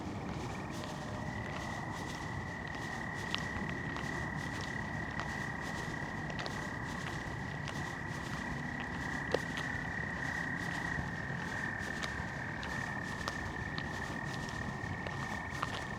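Chorus of frogs giving a continuous high trill, several callers overlapping, with faint scattered clicks.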